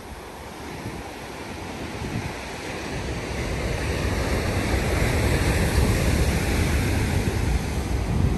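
Ocean surf: the rushing wash of a wave that grows steadily louder over the first few seconds and stays loud to the end, with wind buffeting the microphone.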